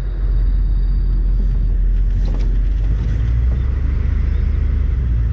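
Steady low rumble of a moving motor vehicle.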